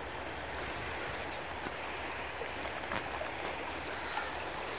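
Fast-flowing river running steadily, an even rushing noise, with a few faint clicks and taps about three seconds in.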